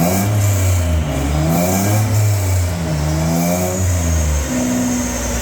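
Ford Mondeo 2.5-litre V6 engine on a rolling road dyno, revved up and down several times, then held at a steady speed near the end.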